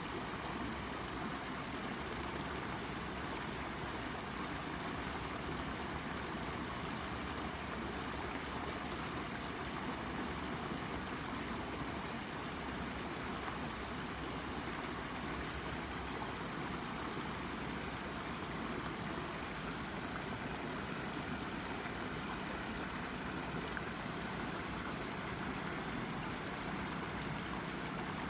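Shallow brook babbling over a rock: a steady trickling and gurgling of running water.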